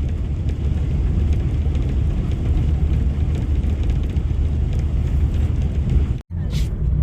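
Steady low rumble with a noisy hiss over it, cut off briefly about six seconds in.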